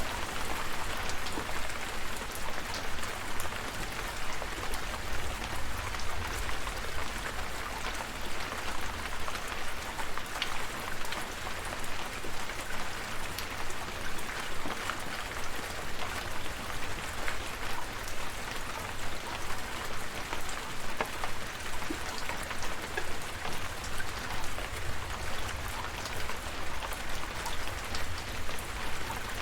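Steady rain falling, with individual drops heard as scattered sharp ticks over an even hiss, and a low rumble underneath.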